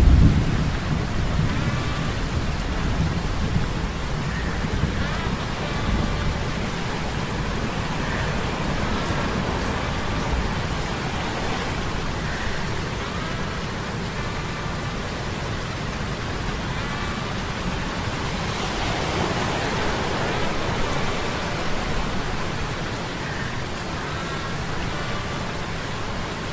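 Steady storm ambience of heavy rain hissing, with a low rumble dying away at the very start and a brief swell about two-thirds through.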